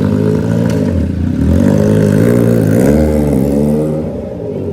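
Triumph Trident 660's inline three-cylinder engine breathing through an aftermarket full exhaust system, running just after start-up. Its pitch rises and falls a few times under light throttle, then it settles and eases a little near the end.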